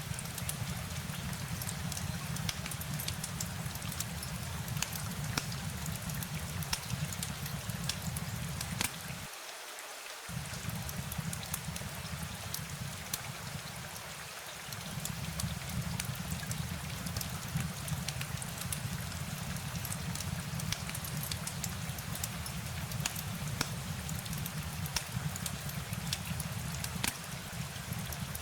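Steady rain with many sharp drop ticks, over a low rumble that cuts out for about a second partway through.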